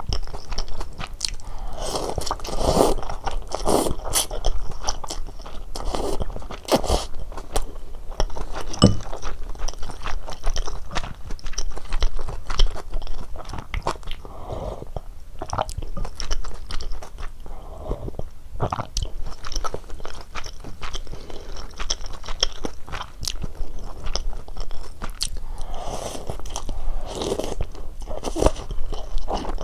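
Close-miked eating sounds of a person eating cheese ramyeon with dumplings: chewing and biting, with many short wet mouth clicks.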